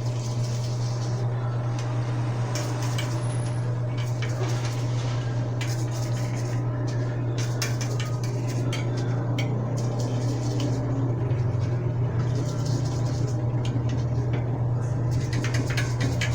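Small metal bicycle hub parts clinking and scraping as they are handled and cleaned, many short sharp clicks over a steady low hum.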